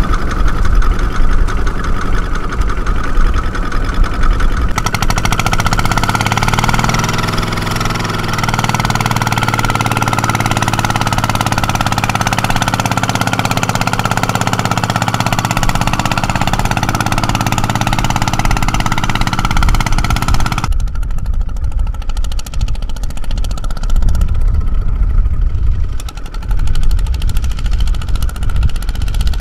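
A farm machine's engine running loudly and steadily, with a knocking beat. Its pitch rises around seven seconds in. The sound changes abruptly about five seconds in and again about twenty-one seconds in.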